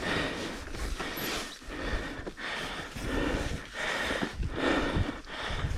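A dirt bike rider breathing hard, panting in quick, noisy breaths close to the microphone.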